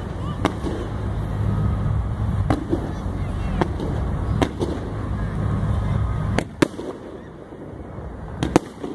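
Aerial fireworks bursting in a string of sharp bangs, roughly one a second, the loudest about six and a half seconds in. Under them runs a low steady rumble that drops away a little past halfway.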